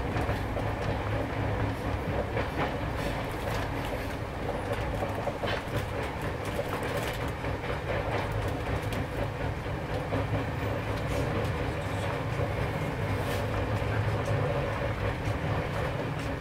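Duronto Express passenger train running: a steady rumble with scattered sharp clicks from the wheels and track.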